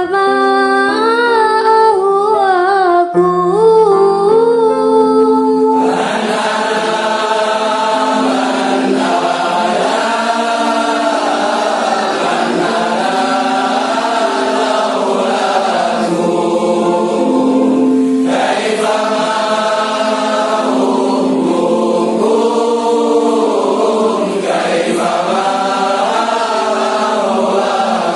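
Background vocal music. A solo voice sings a wavering melody over held tones, and about six seconds in a fuller group of voices takes over in a chant-like style.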